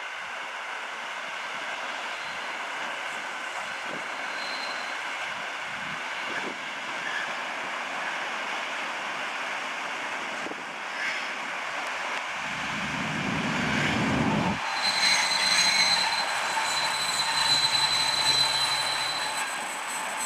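Steam-hauled passenger train passing at a distance, a steady rumble of wheels on rails. A low rumble swells briefly, then about two-thirds of the way in the sound changes abruptly to a louder train with a thin, steady high-pitched wheel squeal.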